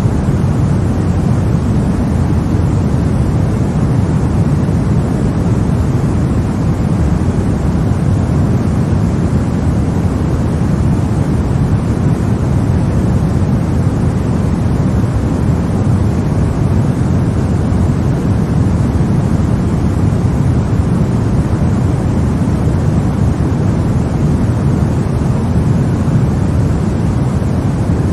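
Continuous white noise for baby sleep: a deep, even rushing hiss, heavier in the low end, with no changes.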